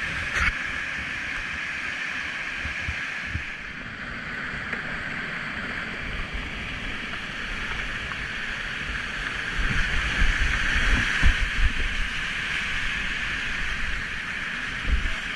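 River rapids rushing steadily as heard from a kayak on the water, with low thumps of wind and knocks on the microphone that grow heavier about two-thirds of the way through.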